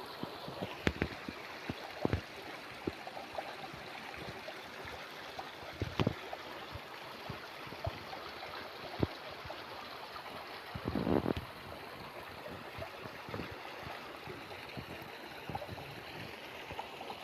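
A stream running: a steady rush of flowing water, with scattered short sharp ticks and a louder surge about eleven seconds in.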